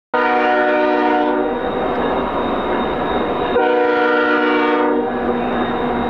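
Freight locomotive air horn sounding two blasts of just over a second each, the second about three and a half seconds after the first, over the steady rumble of a passing freight train. A thin, steady, high whine runs underneath.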